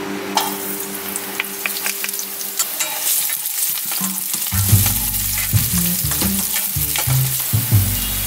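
Sliced garlic and ginger frying in hot oil in a nonstick wok, sizzling as soon as they go in, with frequent sharp pops and the scrape of a wooden spatula stirring.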